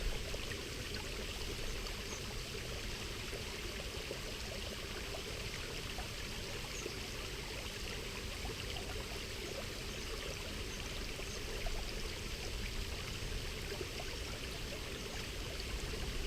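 Waterfall and stream water rushing steadily, a constant even noise.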